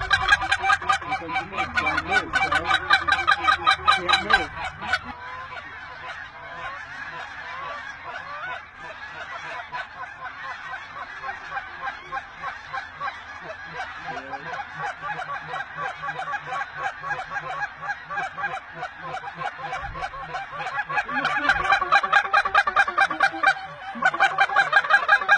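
A large flock of wild geese calling, a dense chorus of rapid overlapping honks. It is loudest in the first few seconds and again near the end, and fainter in between.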